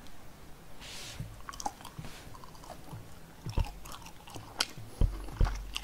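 A person chewing and biting into pieces of sesame-topped sweet and sour fried pork, recorded close up, with several short sharp crunching clicks in the second half.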